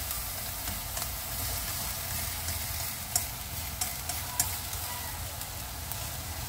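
Ground lean pork and chopped wood ear mushroom sizzling in a stainless steel frying pan, moistened with a spoonful of water, while wooden chopsticks stir the meat. The chopsticks click against the pan a few times about three to four and a half seconds in.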